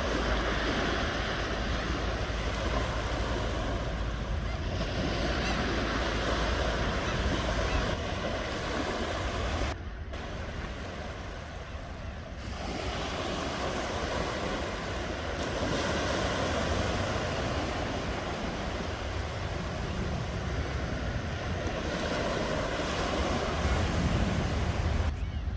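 Ocean surf: waves breaking and washing in a continuous rush of noise, swelling and easing, with a sudden drop in level about ten seconds in that builds back up a couple of seconds later.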